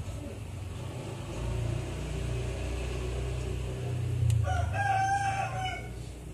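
A rooster crowing once, a pitched call of about a second and a half near the end, over a low steady rumble.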